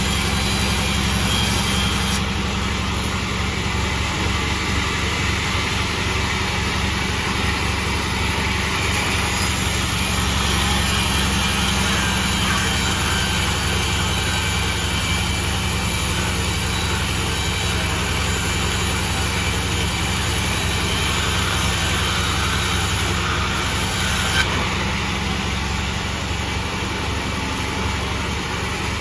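Sawmill's engine running steadily.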